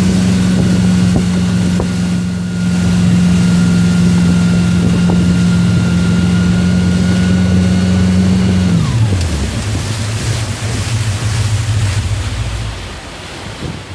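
Motorboat engine running at a steady pitch, then throttled back about nine seconds in, its pitch gliding down to a lower, slower run. Wind and water wash run under it.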